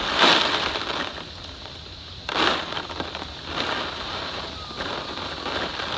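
Heavy hurricane rain pouring down in waves, growing louder in swells just after the start, about two and a half seconds in, and again near the end.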